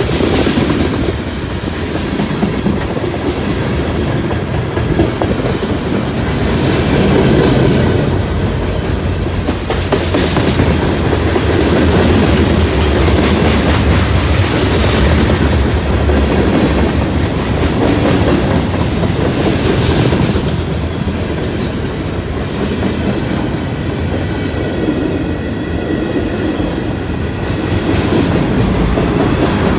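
Freight train of covered hoppers and tank cars rolling past close by: a steady rumble with the wheels clicking over the rail joints.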